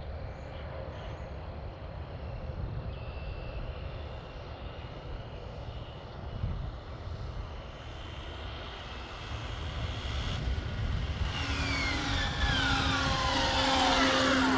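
Low outdoor rumble, then about eleven seconds in the high electric whine of the ARRMA Infraction RC truck's brushless motor drive comes in, several tones falling in pitch together as it grows louder.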